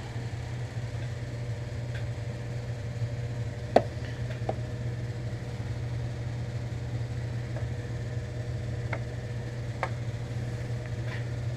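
A steady low hum, with a few faint clicks and one sharper knock about four seconds in, as parts are fitted back onto a garage door opener's gearbox.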